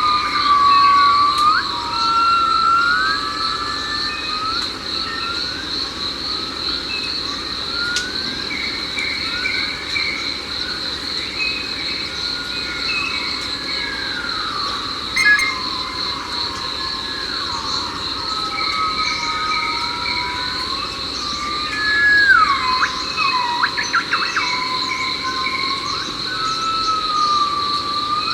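Tropical forest ambience: a steady high insect drone, with birds whistling many gliding calls that rise and fall.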